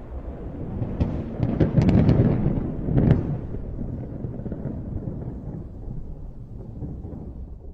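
Thunderclap: a series of sharp crackling cracks starting about a second in, loudest around two seconds and again near three, then a low rumble that slowly fades away.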